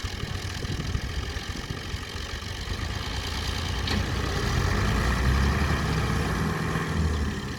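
Tractor diesel engine running, swelling louder about halfway through as it works harder, then easing back near the end.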